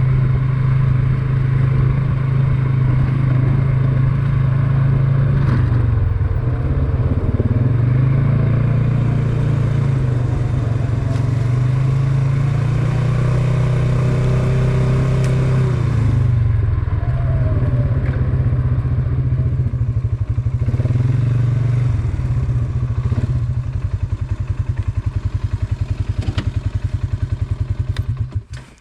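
Single-cylinder off-road engine running under way, loud and steady, its pitch rising and falling with the throttle, then cutting off suddenly at the very end.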